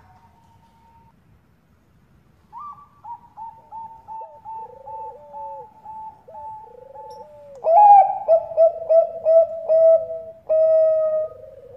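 Zebra dove (Bangkok-type perkutut) singing its rhythmic cooing song: a quick run of short, clipped notes, about two to three a second, that grows much louder about five seconds in and ends on a longer held note.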